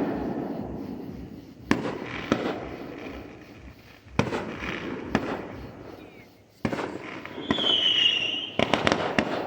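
Fireworks going off: three sharp bangs a couple of seconds apart, each trailing off in a rumbling crackle. Near the end comes a high whistle, then a quick string of crackling pops.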